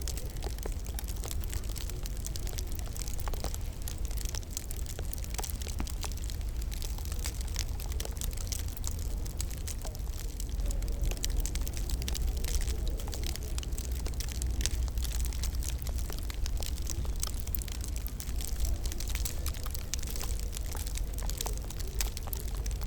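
Wood fire crackling in a fireplace: frequent small pops and snaps over a steady low rumble.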